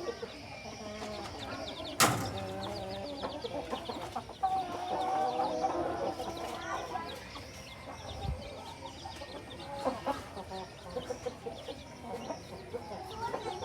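Chickens clucking, many short calls over one another, with a sharp knock about two seconds in and a dull thump later.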